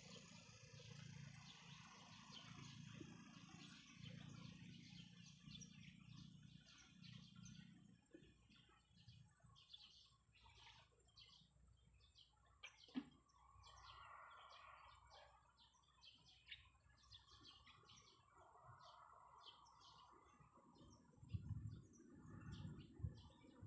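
Faint birds chirping, many short high chirps in quick succession, with a thin steady high-pitched whine underneath. A sharp click comes about midway, and a few low thumps near the end.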